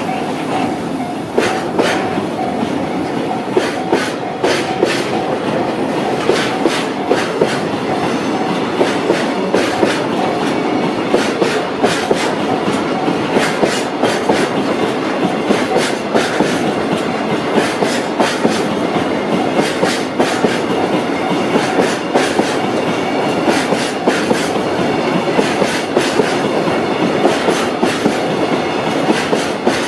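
Freight train of tank wagons rolling past, its wheels clacking steadily and repeatedly over rail joints.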